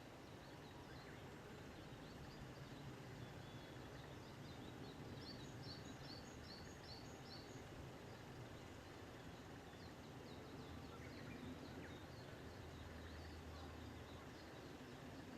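Wild birds calling and singing faintly, with scattered high chirps and, about five seconds in, a quick run of about six repeated high notes. A low steady hum runs underneath.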